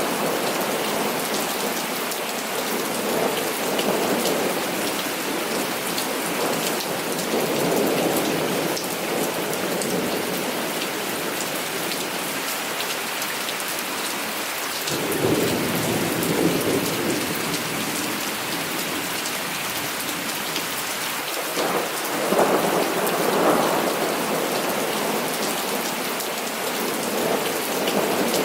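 Heavy rain falling steadily, with thunder rumbling several times: a long roll about halfway through and another a little later.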